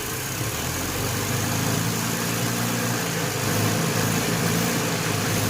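3D-printed inline-four vacuum engine running on a vacuum cleaner's suction, with a low mechanical hum under the steady rush of the vacuum cleaner.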